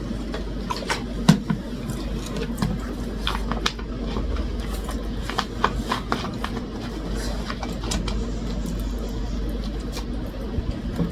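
Eating at the table: scattered short clicks and taps of chewing and utensils over a steady low hum.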